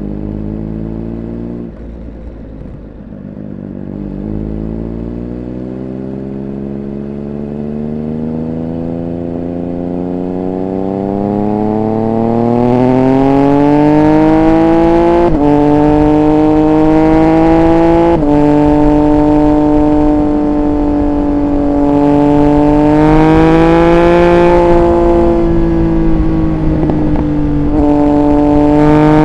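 Triumph Speed Triple 1200 RR's three-cylinder engine under way. The revs dip briefly about two seconds in, then climb steadily and get louder for about ten seconds. After that the note holds fairly even, with a few small rises, dips and sudden steps in pitch.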